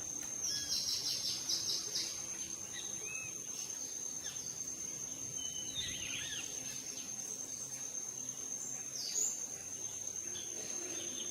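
Outdoor nature ambience: a steady high-pitched insect trill runs throughout, with several bird chirps and calls over it. There is a quick series of chirps in the first two seconds and a louder call about nine seconds in.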